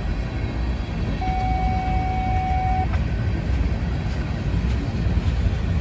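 Freight train cars rolling past: a steady low rumble of wheels on the rails. About a second in, a single steady high tone sounds for about a second and a half.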